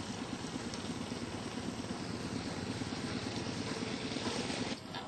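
An engine running steadily with a rapid low pulse, cutting off abruptly near the end to a quieter hiss.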